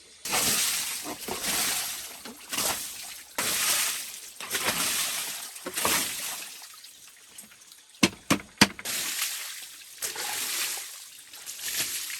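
Water sloshing and splashing in repeated surges about a second long, with three sharp knocks close together about eight seconds in.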